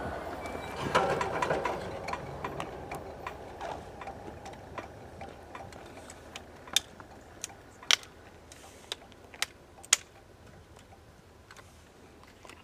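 A passing train receding, its rumble fading steadily away. Scattered sharp clicks sound over it, the loudest few in the second half.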